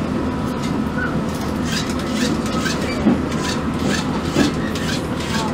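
Narrow-gauge Pingxi Line train running slowly, heard from inside the carriage: a steady low rumble with a run of short clicks and clacks from the wheels on the rails.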